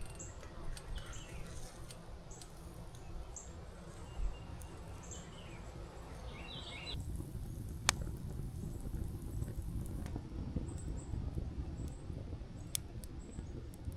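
Small birds chirping in short, high, repeated calls over a steady low background noise, with a few sharp clicks. The background changes abruptly about halfway through.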